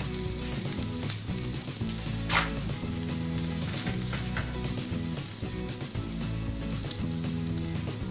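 Tri-tip steadily sizzling on the grill grate over an open fire, with a few sharp crackling pops, the loudest about two seconds in.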